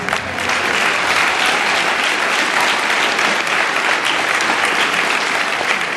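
An audience applauding steadily: many people clapping at once after a skit ends.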